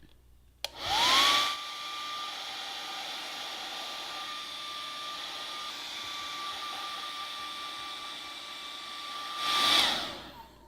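Handheld hot-air blower switched on with a click, its motor whine rising quickly to a steady high tone over a rush of air as it heats the glued seam to set the adhesive. The rush of air is loudest just after it starts and again just before it shuts off near the end.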